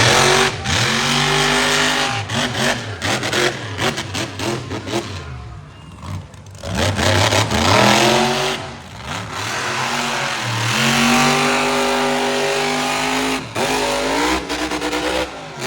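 Monster truck engine revving hard during a freestyle run. Its pitch climbs and falls again and again as the throttle is blipped and released, with brief dips near the middle.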